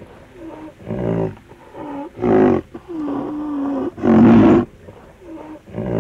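A big cat roaring and growling in a series of about six loud, deep calls, each under a second apart from one longer held call in the middle.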